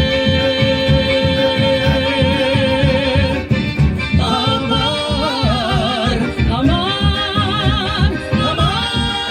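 Live folk band playing on stage: long, wavering sung notes held over a steady strummed and bass beat.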